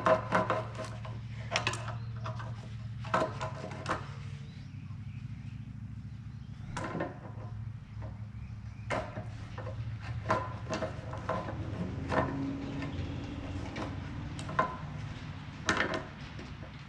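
Steel reamer cutting into the bent steel ear of a skid-steer quick-change bracket to smooth up the hole, heard as irregular metallic clicks and scrapes, over a steady low hum.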